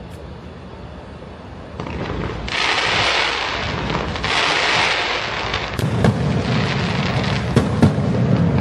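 Fireworks going off: a steady crackling hiss that grows louder about two and a half seconds in, with sharp bangs and low booms from about six seconds on.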